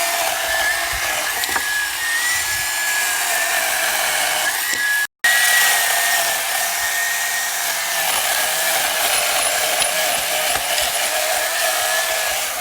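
Power saw running steadily with a wavering whine as it cuts into the trunk of a fallen tree. The sound drops out briefly about five seconds in, then carries on.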